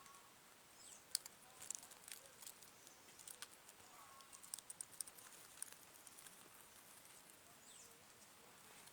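Faint outdoor ambience: scattered light ticks and clicks over a soft hiss, with a few faint short chirps.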